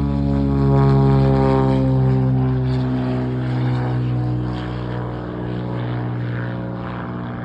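Propeller airplane flying past on a touch-and-go, its engine drone loudest about a second in, then dropping in pitch and fading as it moves away.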